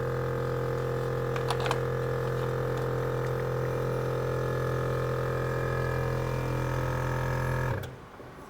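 Electric winch on an off-road 4x4 running, a steady pitched motor hum with a few faint clicks near the start, cutting off sharply near the end.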